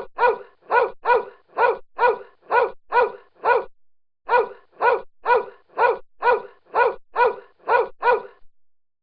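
A dog barking repeatedly in a steady rhythm, about two barks a second, with a short pause midway and stopping near the end.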